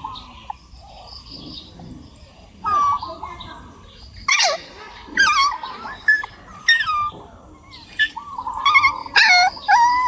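Puppy whining and yelping: a run of short, high-pitched cries starting about two seconds in, several sliding down in pitch.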